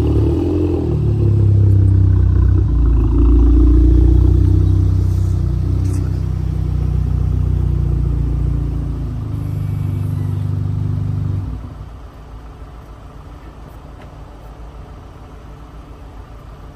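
Car engine running at raised revs, its pitch rising slightly over the first few seconds and then sagging. About eleven seconds in it drops suddenly to a much quieter, steady running sound.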